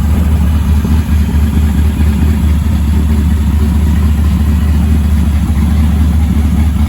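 Car engine idling with a steady, loud low rumble.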